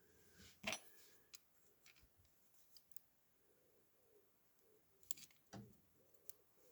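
Faint, sparse clicks and light knocks of a small diecast toy car being handled, its metal parts tapping. From about halfway in, a bird cooing faintly in the background.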